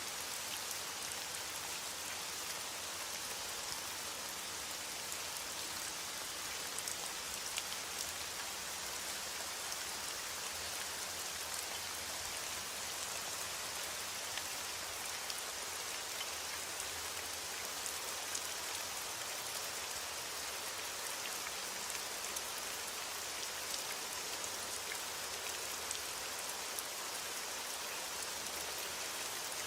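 Steady rain falling: an even hiss with a scatter of sharp drop ticks on a surface.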